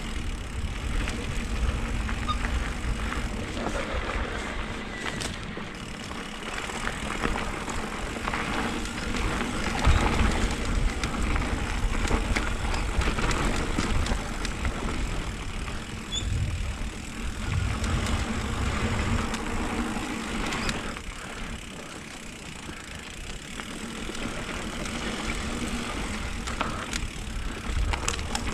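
Mountain bike riding a dirt trail: wind buffeting the helmet or chest camera's microphone over the tyres' rolling noise, with bike rattles and clicks and one harder jolt about ten seconds in.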